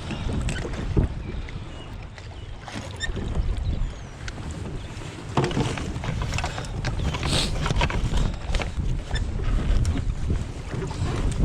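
Wind buffeting a camera microphone in a canoe on open water, with uneven low rumbling and scattered small knocks and clicks.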